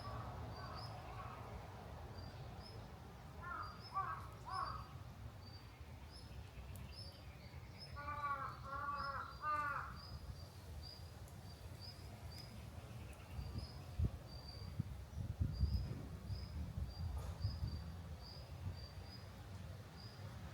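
Crow cawing: a short group of calls about four seconds in, then four harsh caws a few seconds later. A thin, high chirp repeats two or three times a second throughout, over a low background rumble.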